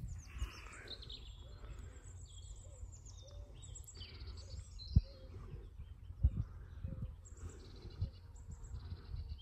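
Small birds chirping and singing in quick, high, repeated phrases over a steady low outdoor rumble, with a few dull thumps about halfway through.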